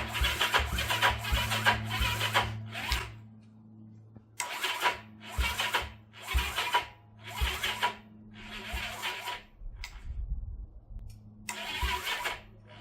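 Electric starter cranking a 1971 Honda CB350 twin in a run of short bursts, the first about three seconds long and the rest about half a second to a second each, without the engine catching; a steady low hum runs underneath. The owner puts the weak cranking down to an inadequate battery.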